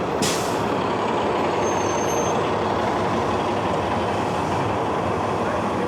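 TTC shuttle bus running close by at a stop, its engine and road noise steady, with a short hiss of air just after the start.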